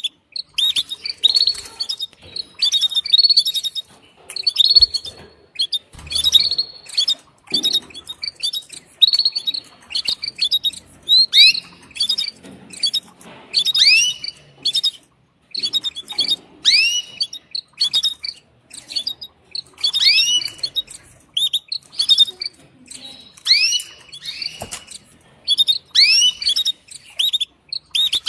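Female canary giving her mating call: short rising chirps repeated about once a second.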